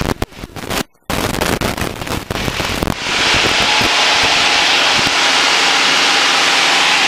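Crackling static on the small airplane's headset audio for about three seconds, cutting out briefly near one second. It then settles into a steady loud hiss over the faint drone of the engine.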